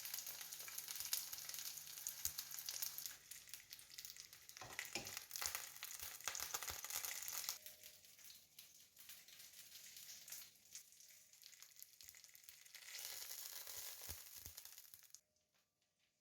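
Chopped chicken cutlets frying in vegetable oil in a pan: a steady sizzle dotted with small crackles. It eases off about halfway, swells again, then cuts off about a second before the end.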